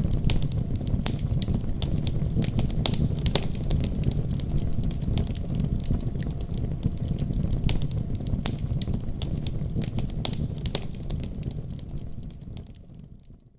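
Wood fire in a fireplace crackling, with frequent sharp pops and snaps over a low, steady rumble of flame. The sound fades out near the end.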